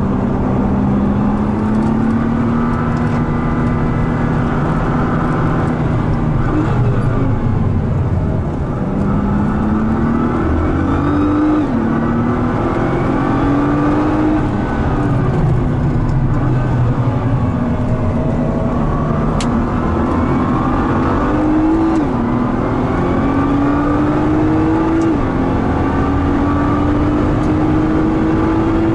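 Nissan R35 GT-R's twin-turbo V6 heard from inside the cabin on a track lap, its pitch climbing under acceleration and dropping sharply at each quick upshift, several times over.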